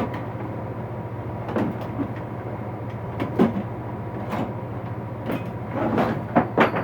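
Scattered knocks and clatter of tools and objects being handled and moved while a tool box is emptied, several in quick succession near the end, over a steady low hum.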